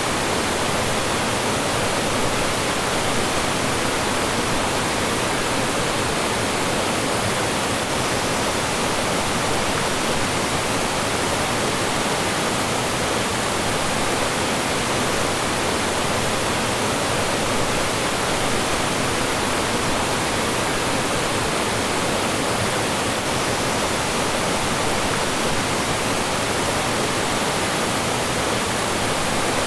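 Mountain stream rushing and splashing over rocks and small falls, a steady, full rush of water with no let-up.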